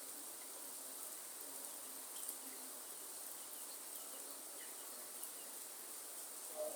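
Rainforest ambience: a steady hiss of rain with a high, continuous insect drone over it and a few faint bird chirps.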